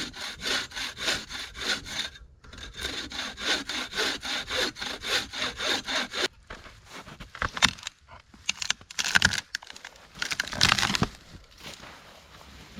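Bow saw cutting through a thick pine log in quick, even back-and-forth strokes, about three a second, with a brief pause near two seconds. The sawing stops about six seconds in and gives way to irregular cracks and rustles.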